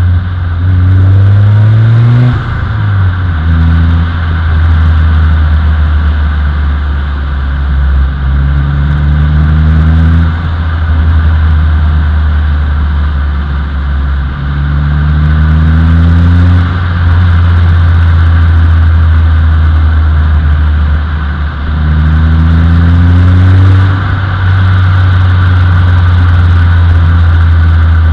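Turbocharged Nissan Micra engine and exhaust heard from the car during engine break-in, running with a strong low drone. The engine pitch rises and falls back about five times as the car accelerates and lifts off, over steady wind and road noise.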